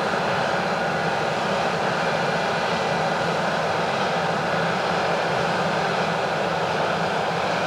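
Heavy farm harvest machinery running steadily under load: an even, continuous engine-and-machine drone with no changes.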